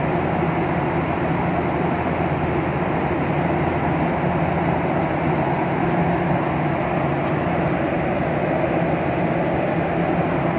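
Steady cabin noise inside a Boeing 737 airliner: an even rushing hum from the engines and air system, with a low drone underneath, unchanging throughout.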